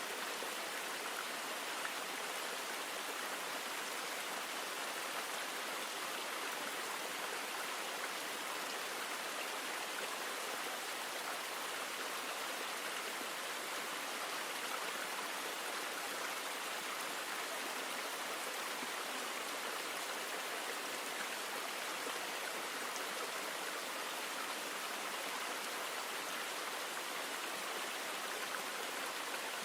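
River water flowing, a steady, even rush with no change throughout.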